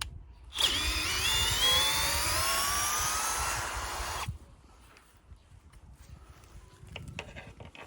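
Cordless drill-driver running a bolt in: a whine that climbs steadily in pitch for about three and a half seconds, then cuts off. Faint knocks and handling follow.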